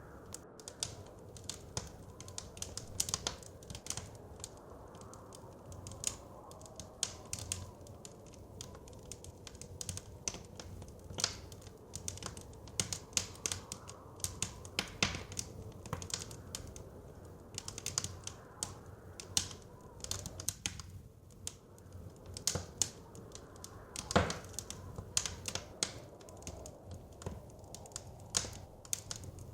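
Wood fire crackling, with many irregular pops and snaps and one sharper pop late on, over a steady low rush of blizzard wind.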